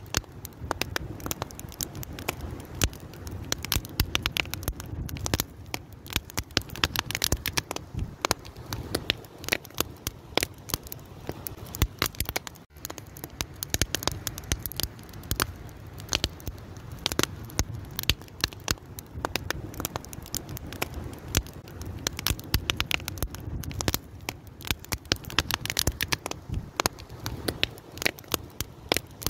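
Fire crackling: a constant, irregular stream of sharp pops and snaps over a low, steady rumble of burning.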